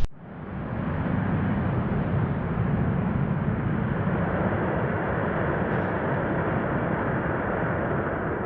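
Steady rumbling noise of airliner jet engines, even and unchanging.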